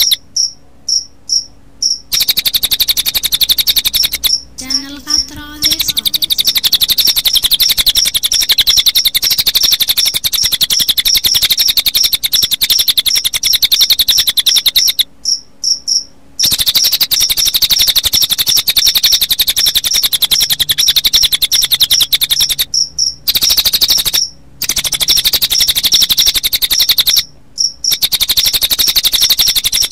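Recording of cililin bird song layered with cricket chirping: a fast, high, shrill pulsing trill in long runs, broken by short pauses every few seconds.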